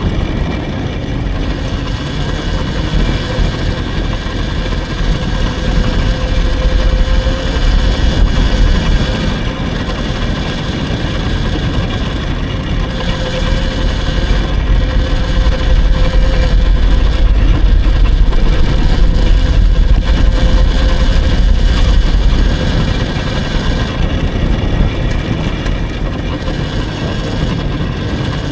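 Electric dirt bike being ridden: the motor's steady whine over heavy wind rumble on the microphone, which grows louder in the middle.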